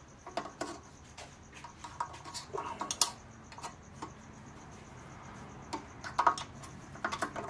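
Irregular light taps, clicks and scrapes of hands knocking dirt out of and handling small engine parts, with a few sharper knocks, the loudest about three seconds in and again just after six seconds.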